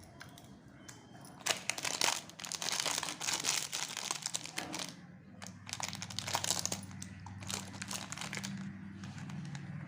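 Chocolate wrapper crinkling and tearing as it is opened by hand. The crinkling starts about a second and a half in, pauses briefly midway, and trails off near the end.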